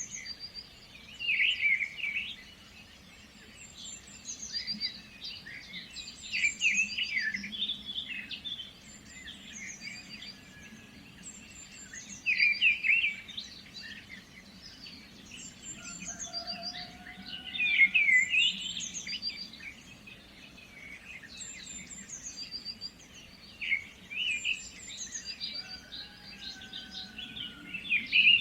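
Several songbirds singing and chirping over one another in a mix of short calls and trills, with louder phrases of song every five or six seconds.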